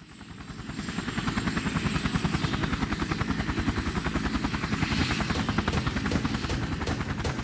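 Helicopter rotor beating rapidly and evenly, fading in over the first second and then holding steady.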